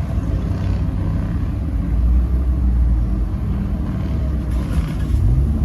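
Car rumble, the engine and road noise low and steady, with a short rising engine note about five seconds in.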